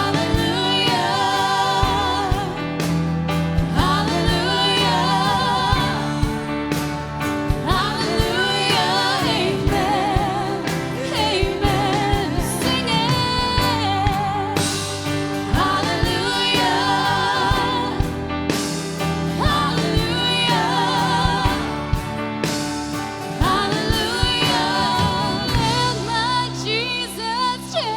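Gospel-style worship song played by a band, with sung vocals over bass, keys and drums.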